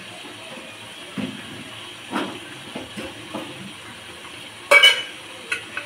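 Steady hiss of food frying in a pot, with a few short metallic knocks of kitchenware against the pot, the loudest a ringing double knock near the end.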